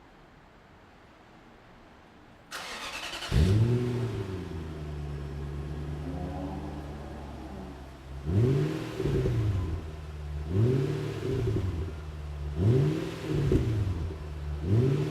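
Nissan Fuga 450GT's V8 started through a one-off quad-outlet exhaust with flat silencers, tuned for a fairly quiet, deep bass note: the starter cranks briefly about two and a half seconds in, the engine catches with a quick rev flare and settles into idle, then the throttle is blipped four times, each rev rising and falling.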